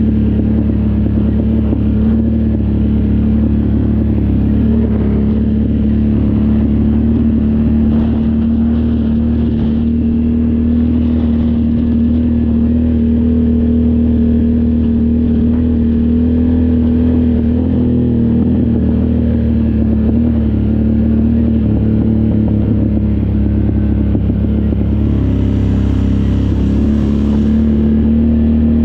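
All-terrain vehicle engine running steadily under load while riding, its pitch holding nearly constant with only slight rises and falls, over a low rumble. A brief hiss joins it near the end.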